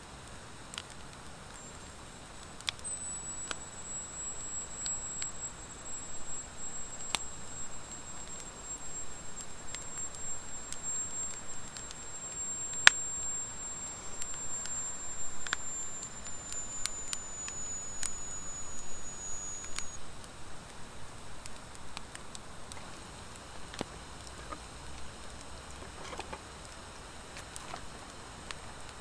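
Wood fire of driftwood and dry hardwood logs crackling, with scattered sharp pops over a soft steady hiss and one loud pop about halfway through. A thin, very high whistle runs for about seventeen seconds from near the start, dropping slightly in pitch before it stops.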